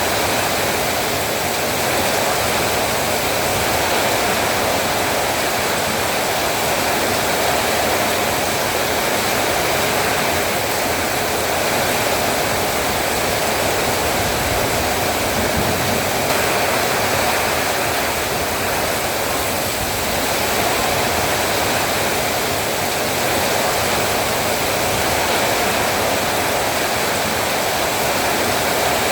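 Heavy rain falling, a steady, even rushing that holds level throughout.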